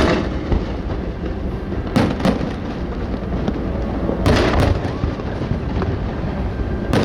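Aerial fireworks bursting: sharp booms every two seconds or so, some in quick pairs, over continuous crackling.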